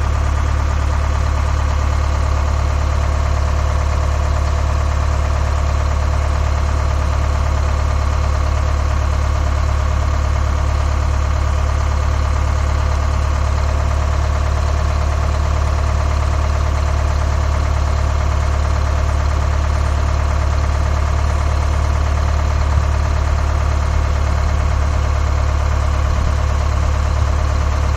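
Large truck's engine idling steadily with a deep, even hum.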